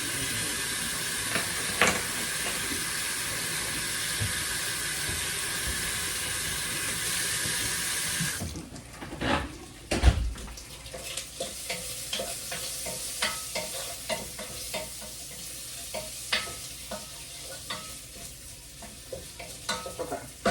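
A kitchen tap running, shut off suddenly about eight seconds in. After a knock, sausage sizzles quietly in a frying pan, with utensils clicking and tapping against the pan.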